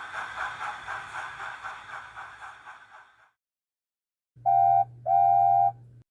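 Steam train sound effect: rhythmic chuffing that fades away. After a short pause come two short whistle toots, the second a little longer.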